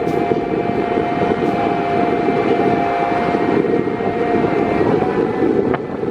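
Steady drone of a vehicle in motion, a dense low rumble with a faint constant whine on top.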